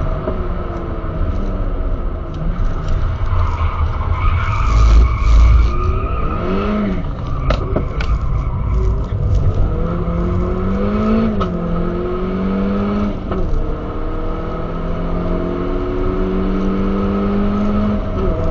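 Skoda Octavia's turbocharged four-cylinder engine, breathing through a K&N intake and Supersprint exhaust, heard from inside the cabin under hard driving: the engine note climbs and drops back several times as it accelerates, shifts and lifts. A louder stretch of rough road and tyre noise comes about four to six seconds in.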